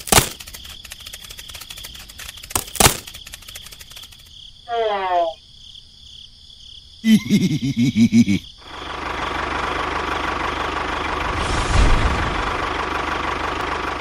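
Two sharp knocks and short pitched sounds in the first half, then a toy tractor's small motor running steadily for the last five seconds.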